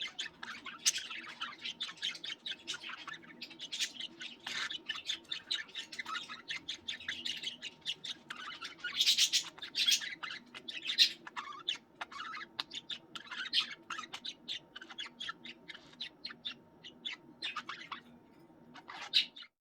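Several budgies chattering together: a dense, continuous stream of rapid chirps, warbles and squawks, with a few louder squawks about halfway through, over a faint steady low hum.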